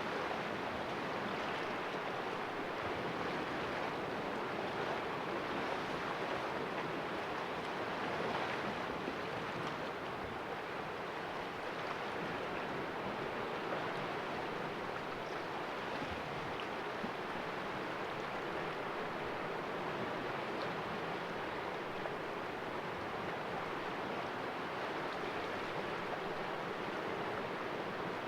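Sea waves washing and splashing against rocks in a small cove: a steady, even wash of surf with no distinct single breakers.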